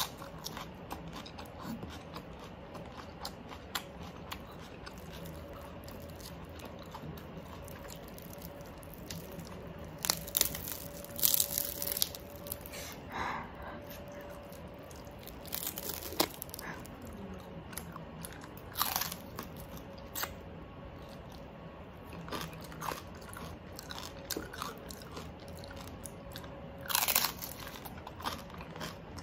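Close-miked biting and chewing of crispy oven-baked pork skin: crackly crunches throughout, with a few louder bursts of crunching in the middle and near the end.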